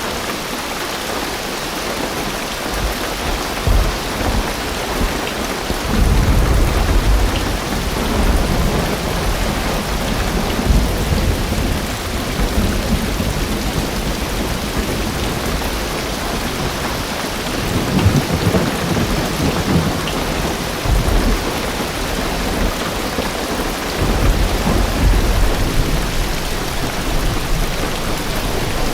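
Heavy rain drumming steadily on a car's roof and windows, heard from inside the car. Low thunder rumbles through it several times, swelling about six seconds in, again around eighteen seconds, and near twenty-four seconds.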